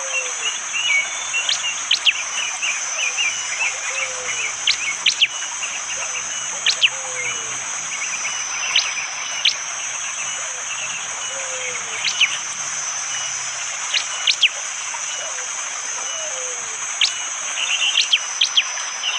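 Prenjak jali, a prinia, giving sharp, hard 'shot' calls: very brief piercing notes, often in pairs, every second or two, with quick twittering between them. Underneath, a steady high insect drone carries on, and a soft low falling whistle from another bird repeats about every two seconds.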